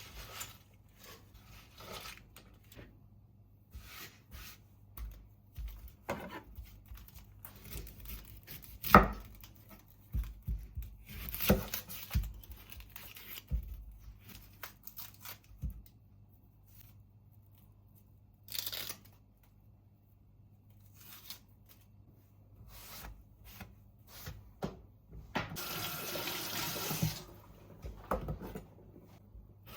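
Kitchen work sounds: scattered knocks and clatter of things being handled, then a tap running for about two seconds near the end.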